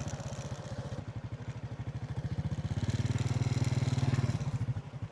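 Small motorbike engine running as the bike rides slowly, its even firing pulses growing louder as the throttle opens slightly in the middle, then easing off near the end.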